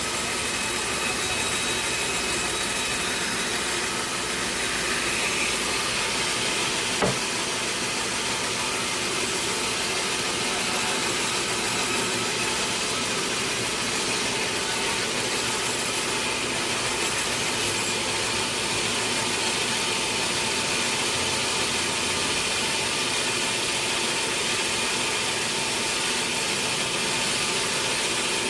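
Sawmill machinery running steadily: an unbroken mechanical noise with a faint steady hum in it, and one sharp knock about seven seconds in.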